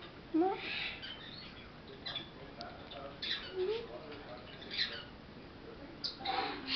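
Quaker parrot (monk parakeet) chattering in short, scratchy calls, about six separate bursts, the loudest about half a second in and near the end.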